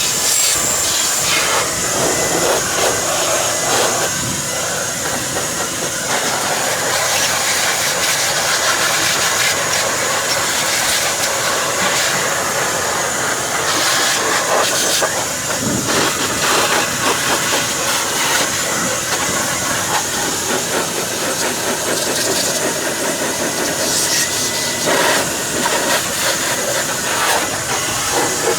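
Steady loud rush of air from a motor-driven air tool, with a thin high-pitched whine throughout and scattered knocks and scrapes.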